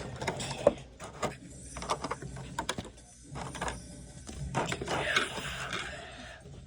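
Small plastic action-figure accessories being handled, with irregular light clicks and knocks, and a short rustle of packaging about five seconds in.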